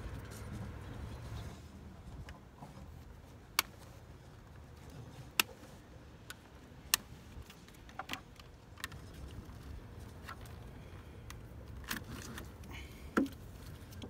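Scattered sharp clicks and taps of hand tools on the plastic fuse box and its harness connector as they are worked loose, seven or eight separate clicks a second or more apart over a steady low rumble.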